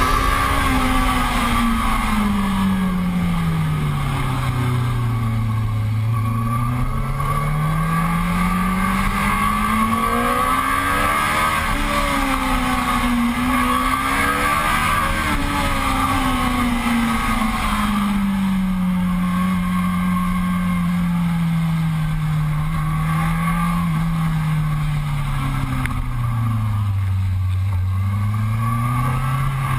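Sport motorcycle engine heard from the bike itself, its pitch rising and falling in long, slow sweeps as the throttle is opened and eased in traffic. The pitch sinks low about a fifth of the way in and again near the end, climbing between.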